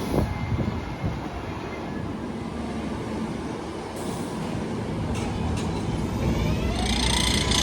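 R188 subway train running on the elevated track, rumbling louder toward the end, its electric motors whining up in pitch about six and a half seconds in and then holding one note.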